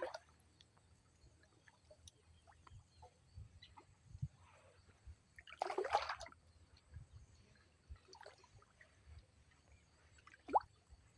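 Faint trickling and sloshing of water as a fish trap is handled, with a short louder splash about six seconds in.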